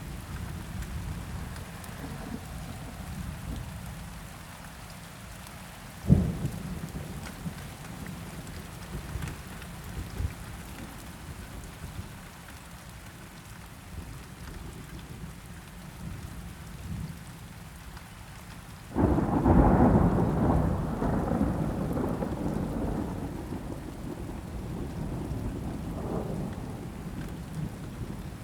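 Steady rain with thunder: a single sharp crack about six seconds in, then a loud thunderclap near the end that rumbles on and fades over several seconds.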